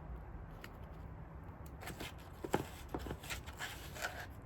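Hands moving plant pots and gardening things about: rustling with a string of short, sharp clicks and taps starting about two seconds in, the loudest a click about midway.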